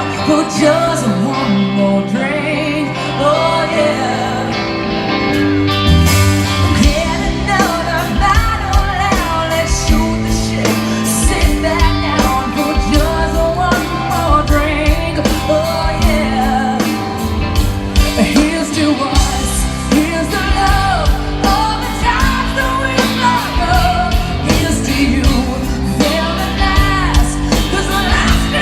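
A live band playing a song with a lead singer. The drums and bass come in about six seconds in and keep a steady beat under the vocal.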